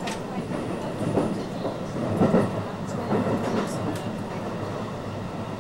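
Running noise heard inside a JR West 223 series 2000 electric train carriage at speed: a steady rumble of wheels on the rails, with a few short knocks from the track along the way.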